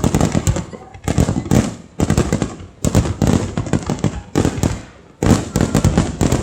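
Fireworks finale: rapid volleys of aerial shell bursts, several bangs a second, coming in waves with short lulls between them.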